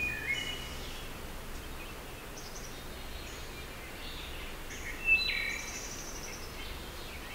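Woodland ambience: scattered short bird chirps and calls over a steady low background rumble, with the clearest chirp about five seconds in.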